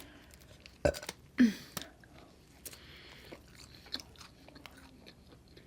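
Close-miked biting into a taco and chewing, with a few sharp crunches in the first two seconds, then quieter chewing.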